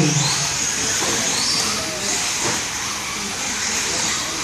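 Radio-controlled short course trucks running on the track: a steady high hiss of motors and tyres, with a couple of short rising and falling whines as the motors speed up and slow down.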